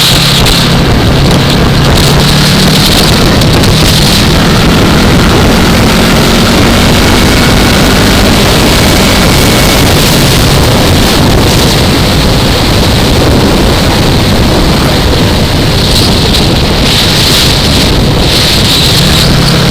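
Yamaha R3's parallel-twin engine running under way, heard from a helmet camera and swamped by heavy wind rush. The engine's tone stands out near the start and again near the end, and is mostly lost in the wind through the middle.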